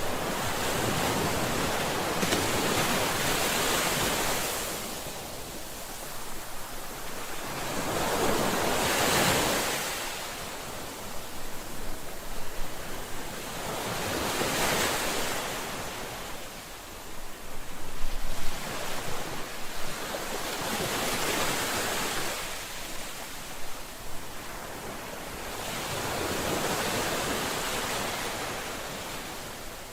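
Ocean waves breaking on a shore, each wave swelling and washing back roughly every five to six seconds.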